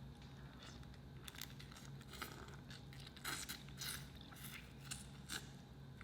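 Close-miked eating sounds as a person chews seafood-boil food: a run of short, irregular crunches and clicks, thickest about midway through.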